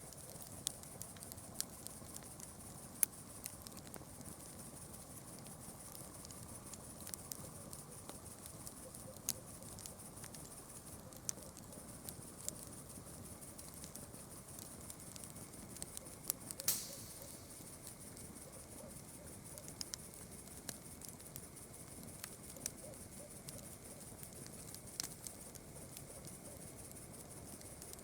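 Campfire crackling: irregular small pops and snaps of burning wood, with one louder pop about seventeen seconds in, over a steady faint high hiss.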